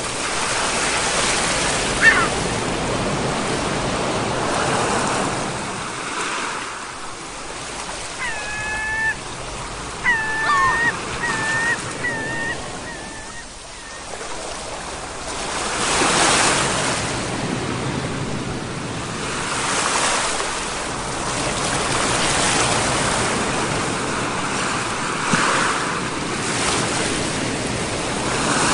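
Ocean waves breaking and washing ashore, swelling and easing every few seconds. A short animal call comes about two seconds in, and a quick run of short calls about a third of the way through.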